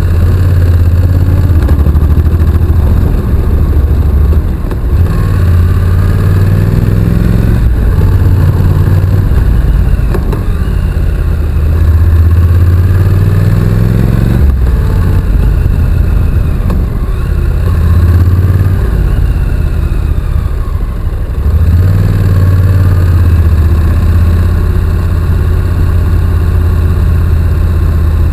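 Honda NC750X's parallel-twin engine running under way, its pitch rising in several long pulls and dropping back between them as the bike accelerates and changes gear.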